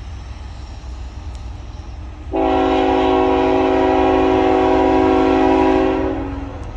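Freight locomotive's air horn sounding one steady blast of about four seconds, starting a couple of seconds in and fading out, over a low steady rumble.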